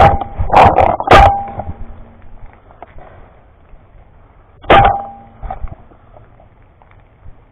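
Paintball marker firing: three quick shots within the first second and a half, then one more shot a few seconds later.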